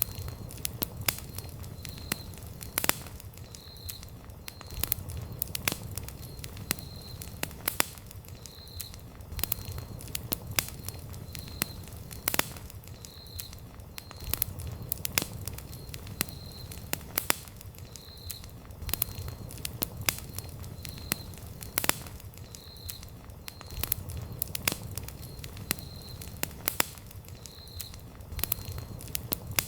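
Wood campfire crackling, with irregular sharp snaps and pops over a low rumble of flames that swells every few seconds. A faint high chirp repeats about once a second underneath.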